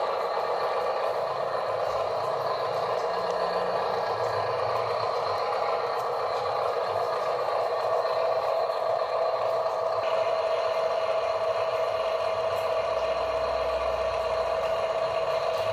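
Radio-controlled model dump truck's small electric motor and gearbox running with a steady whine, which gets stronger about halfway through, over light clatter.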